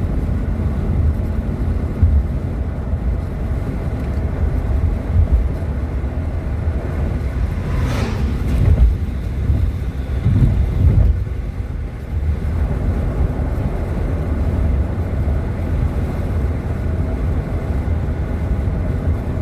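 Road noise of a moving vehicle heard from inside the cabin: a steady low rumble of engine and tyres, with a brief sharp sound about eight seconds in.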